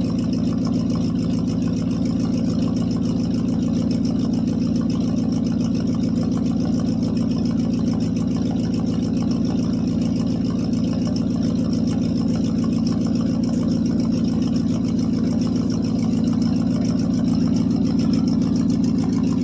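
International 345 V8 idling steadily, heard from back by the exhaust.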